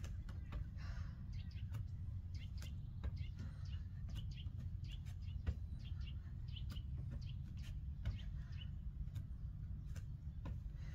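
Small birds chirping in short, repeated chirps over a steady low rumble, with scattered sharp clicks.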